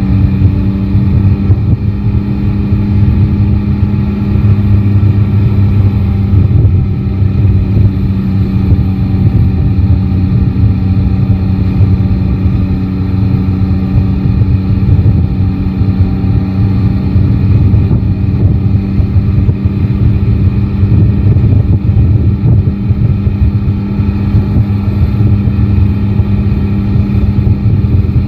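Yamaha Tracer 9 GT's inline-three engine running at a steady, nearly unchanging pitch, with a heavy low rush of wind and road noise beneath it.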